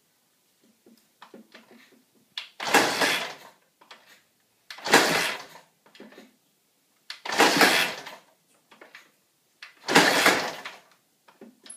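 2001 Honda CR250R's single-cylinder two-stroke engine being kick-started without catching: four kicks, each a short rush of noise about two and a half seconds apart, with small clicks and knocks between them.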